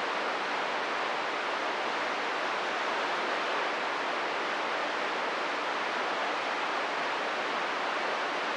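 Steady hiss of static from a CB radio receiver between transmissions.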